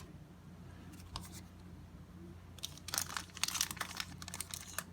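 A trading card pack wrapper being torn open and crinkled by hand, a dense run of crackling that starts about two and a half seconds in.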